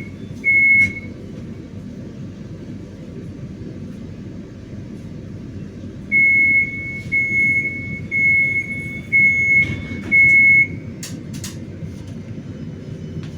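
Inside a 71-931M Vityaz-M tram car: a steady low rumble with high electronic beeps, one short beep near the start and a run of five longer beeps about halfway through, followed by a few sharp clicks.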